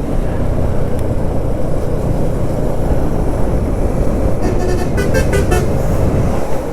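Car moving along a road, its engine and tyre rumble heard steadily, with a brief pitched, pulsing sound from about four and a half seconds in.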